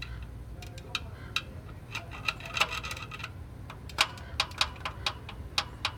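Irregular sharp metallic clicks and knocks, a few a second, over a low steady hum, from the bottom end of a Toyota Prius engine with the oil pan off: a connecting rod is loose on the crankshaft, probably from a failed rod bearing.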